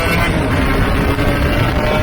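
Aprilia Tuono 125's single-cylinder two-stroke engine, breathing through a TYGA expansion-chamber exhaust, running under way as a steady low rumble with a faint engine tone above it, mixed with wind on the microphone.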